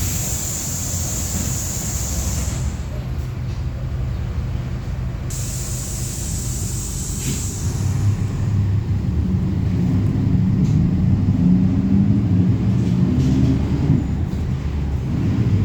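Mercedes-Benz OF-1721 city bus heard from on board: the engine runs under a steady rumble, with two spells of high hissing in the first half, then picks up and accelerates with its pitch rising from about ten seconds in, dropping back briefly near the end.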